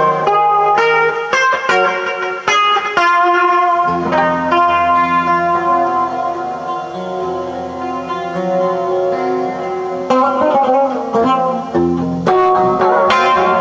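Instrumental guitar music: a quick run of plucked notes, then a low chord held for several seconds, then plucked notes again near the end.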